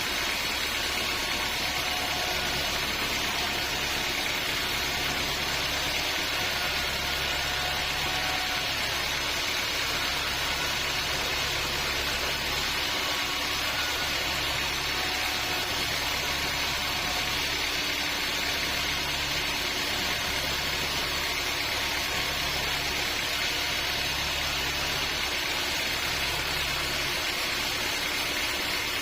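Sawmill machinery running steadily: a constant engine hum under a dense, even hiss, with no change in pitch or load.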